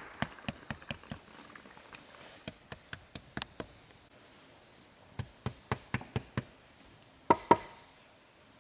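Sharp knocks in two quick runs of about four a second, then two much louder knocks close together near the end.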